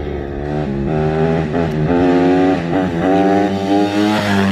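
Off-road vehicle engine under way, accelerating through the gears: its pitch climbs and drops back at each of several quick shifts.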